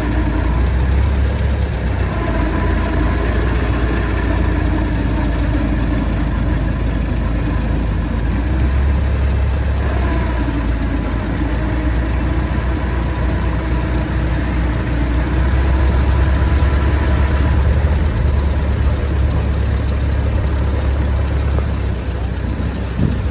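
Vehicle engine running steadily with a deep, constant rumble, heard from on board the moving vehicle.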